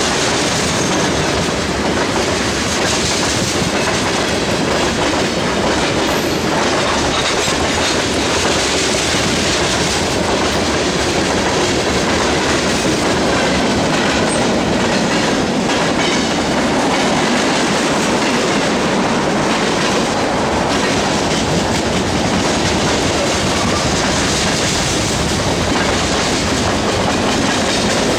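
Freight cars of a passing manifest train (tank cars, covered hoppers and lumber-loaded flatcars) rolling by close at speed: a loud, steady rumble of steel wheels on the rails, with clickety-clack over the rail joints.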